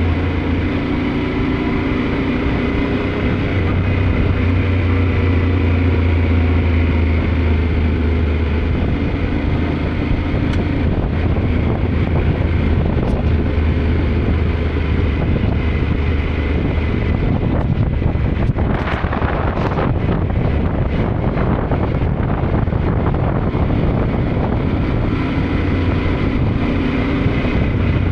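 Yamaha Ténéré 700's parallel-twin engine running steadily under way, its pitch drifting gently with speed, with wind rushing over the microphone. About two-thirds of the way through comes a stretch of louder rushing with scattered clicks and rattles.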